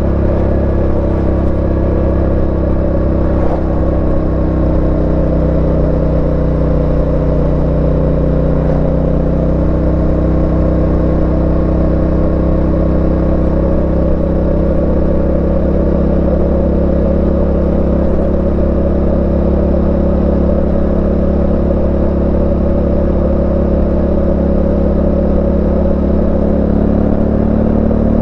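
Yamaha Ténéré 700's parallel-twin engine running at a steady cruise under way, its pitch drifting only slowly, with a change in engine note near the end.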